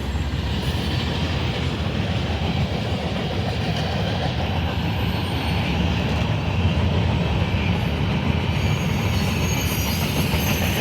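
CSX freight train rolling past close by: a loud, steady rumble of the cars with the clacking of wheels over the rail joints.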